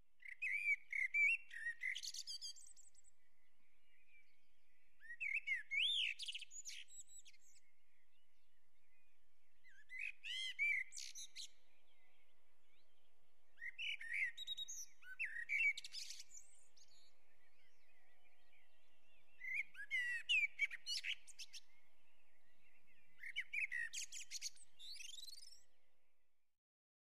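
Birdsong: a small songbird singing short bursts of quick chirps and trills every four to five seconds, six in all, over a faint steady background. It fades in at the start and fades out near the end.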